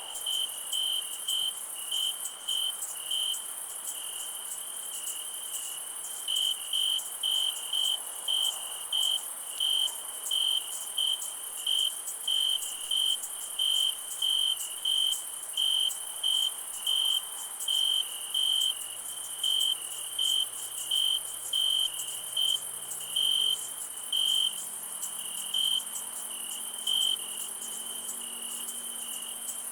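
Night insect chorus: a cricket chirping in a steady rhythm, about one and a half chirps a second with a short pause a few seconds in, over a continuous very high-pitched insect drone.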